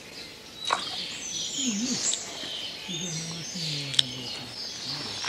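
Small birds chirping and twittering in the background, with a sharp click under a second in and another about four seconds in.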